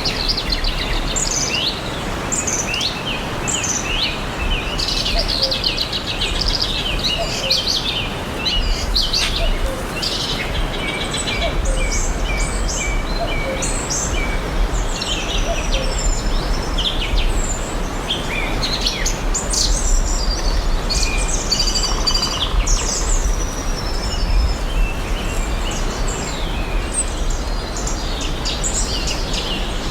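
Several songbirds chirping and singing at once, many short overlapping calls and whistled phrases, over a steady background hiss and a low rumble.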